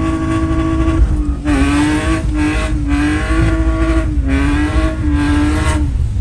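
BMW E46 with aftermarket headers revving hard and held at high revs while drifting, the pitch wavering and dipping briefly every second or so as the throttle is lifted and reapplied.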